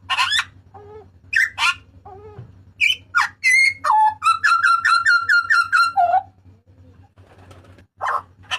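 A Papuan butcherbird calling loudly: a string of harsh, gliding whistled notes, then a rapid run of about eight repeated notes ending in a lower note. After a short pause another call comes near the end. A faint steady hum lies underneath.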